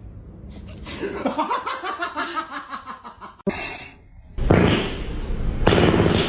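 A person laughing in quick, rapid bursts. After an abrupt cut, loud music with guitar starts about four and a half seconds in.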